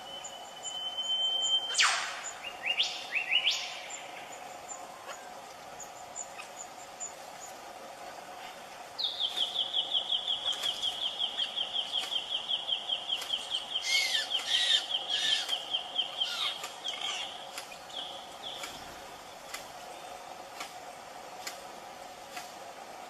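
Bird-of-paradise calls: a thin held whistle, then sharp rising whistles about two seconds in. Later comes a fast run of repeated notes, about five a second, lasting some eight seconds with other calls over it. A steady background drone runs underneath.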